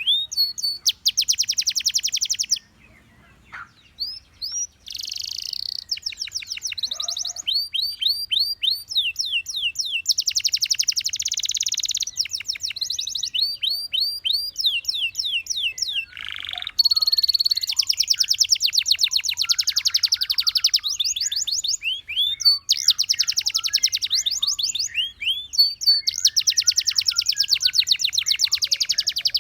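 Gloster canary singing: fast trills alternating with runs of repeated rising notes, broken by a short pause a few seconds in.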